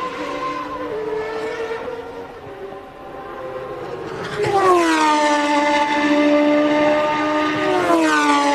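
Formula One race car engines at high revs, a high multi-pitched whine. One car fades away, then around four and a half seconds in a louder one comes in with its pitch dropping, holds steady, and drops again near the end.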